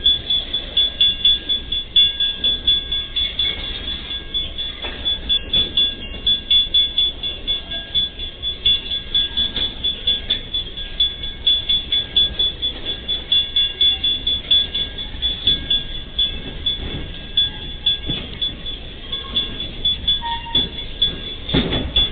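Empty freight wagons rolling past, the wheels knocking over the rail joints in an even rhythm of about two to three beats a second, with a steady high-pitched tone throughout.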